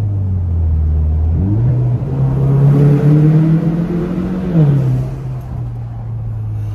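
Kia Stinger's 2.0-litre turbocharged four-cylinder accelerating hard, ripping under a bridge. The engine note climbs from about a second and a half in, drops back just under five seconds in, then settles to a steady drone.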